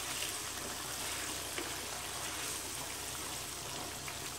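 Chicken karahi in yogurt gravy sizzling and bubbling in a karahi as it cooks down, stirred with a spoon that gives a couple of faint scrapes.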